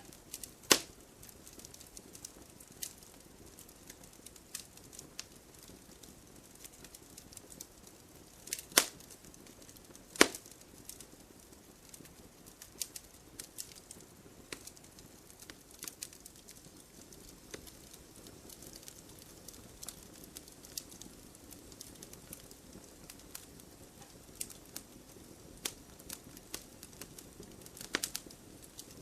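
Wood fire burning in a fireplace, crackling irregularly with a few louder, sharp pops of the logs.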